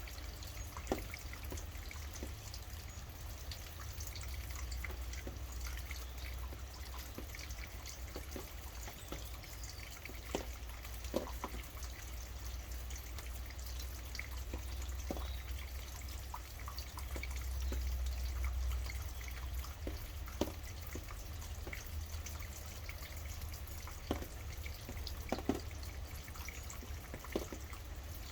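Steady rainfall with heavy drops dripping at irregular moments, each a sharp tap, over a constant low rumble that swells briefly near the middle.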